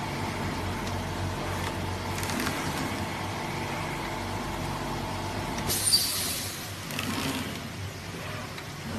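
Flatbed digital cutting machine running with a steady mechanical hum, and a short hiss about six seconds in.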